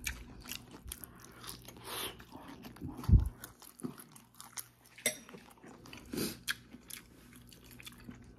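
Close-up mouth sounds of a person chewing a mouthful of rice and soup, with wet lip smacks and clicks. A dull thump about three seconds in is the loudest sound.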